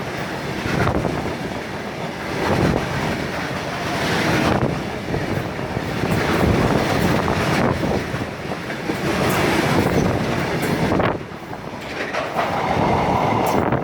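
A train passing close by, its wheels clattering over the rail joints in a steady heavy rumble, which eases about three seconds before the end.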